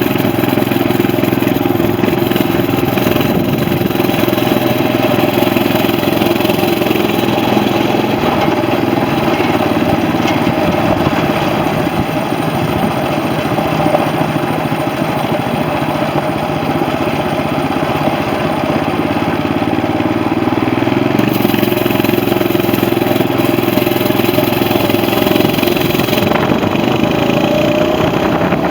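Coleman CT200U mini bike's 6.5 hp single-cylinder Honda-clone engine running steadily while the bike is ridden. Its pitch shifts about two-thirds of the way through and rises near the end as the throttle is opened.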